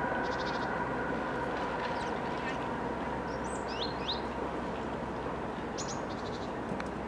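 Sparrows chirping: a few short high chirps and quick rattling trills over a steady background hum.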